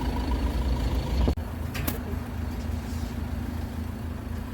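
Steady low rumble of a running vehicle engine, which changes abruptly just over a second in, with one short sharp click about two seconds in.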